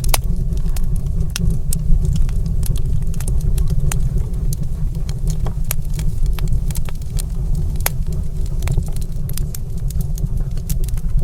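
Wood fire crackling in a stone fireplace: irregular sharp pops and snaps, several a second, over a steady low rumble.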